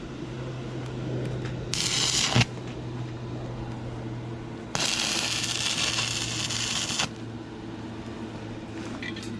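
Stick welding arc from a 6011 rod on rusty, painted thin metal: two bursts of crackling hiss, a short one about two seconds in that ends with a sharp snap, and a longer one of about two seconds in the middle. A steady low hum runs underneath.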